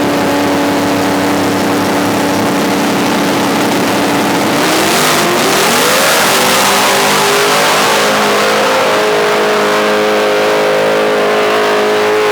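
A drag-racing pickup truck's engine at full throttle during a pass. It holds a steady high note, climbs higher about five seconds in, and falls off sharply at the very end as the throttle is lifted.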